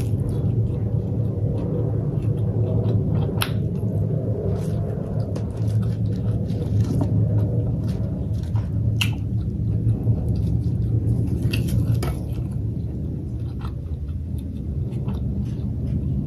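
Close-miked chewing of fried pork, with a handful of sharp, crisp mouth clicks, over a steady low rumble.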